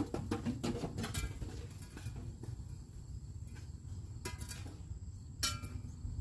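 Sharp clicks and clinks of hand tools and metal hardware during work on rotted wood. A quick run of them comes in the first second, then single ones, a few with a short metallic ring, the loudest about five and a half seconds in. A faint steady high tone and a low rumble lie underneath.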